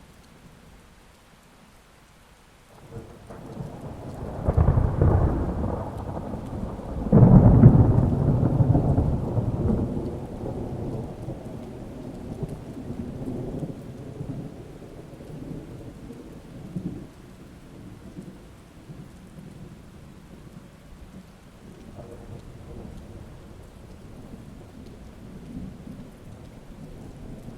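Thunderstorm: steady rain with a peal of thunder that builds about three seconds in, cracks loudest about seven seconds in, and rolls away in a long low rumble.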